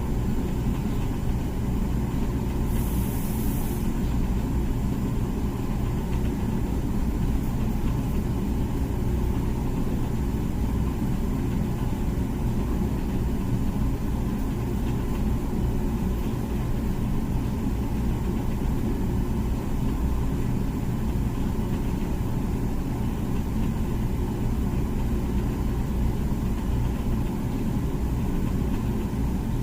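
Comfee dishwasher running its wash cycle: a steady low hum, with a brief high hiss about three seconds in.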